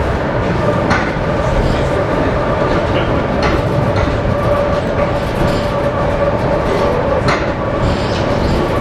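ER2K electric multiple unit running, heard from inside a passenger car: a steady rumble with a constant whine. A few knocks come from the wheels crossing rail joints.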